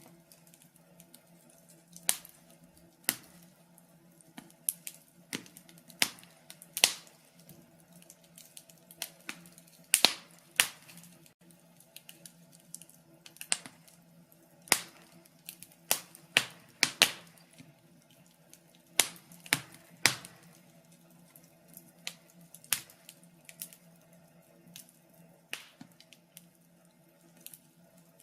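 Wood fire crackling: irregular sharp pops and snaps, a few every couple of seconds, some louder than others, over a faint steady low background.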